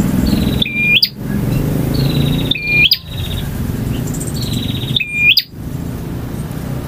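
Male prinia (prenjak) singing, its phrase repeated three times about two seconds apart. Each phrase is a quick buzzy trill ending in a sharp snap, over a steady low background rumble.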